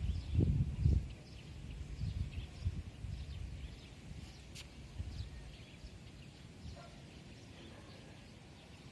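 Faint, irregular chirping of birds. There is a low rumble during the first second.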